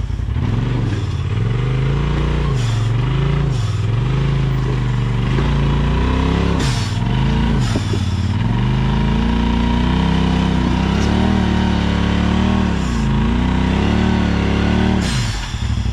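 Side-by-side UTV engine revving up and down under load while crawling over rocks, the pitch rising and falling about once a second, then holding at higher revs with slower swells and dipping near the end. It is being worked hard enough to overheat its CVT drive belt.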